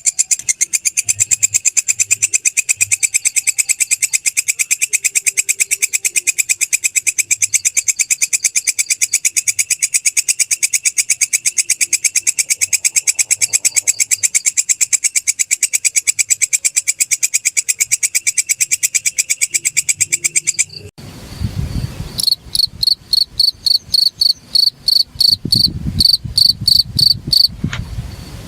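A singing insect's very fast, even buzzing trill, typical of a walang kecek katydid, stops abruptly about two-thirds of the way through. A field cricket (jangkrik) then chirps in short, high pulses about two or three times a second over a low rumble.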